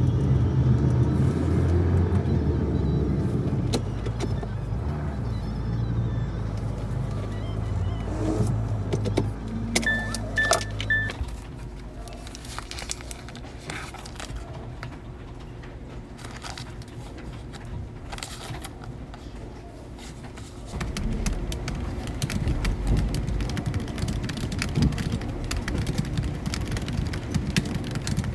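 Low rumble of a road vehicle in motion, with three short electronic beeps about ten seconds in. The rumble drops away for several seconds in the middle, with scattered light clicks, and then returns.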